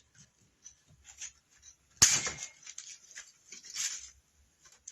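Tin snips cutting through a metal wire wreath form: one loud, sharp snap about two seconds in, among small clicks and rustling of the wire being handled.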